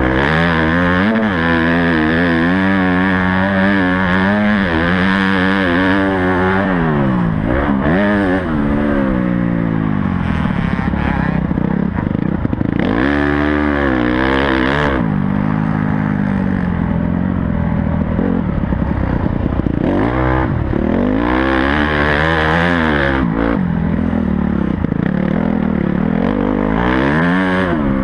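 Honda CRF250 motocross bike's single-cylinder four-stroke engine, heard from on the bike, revving up and dropping back again and again as the rider accelerates, shifts and slows through the track, with wind rush on the microphone.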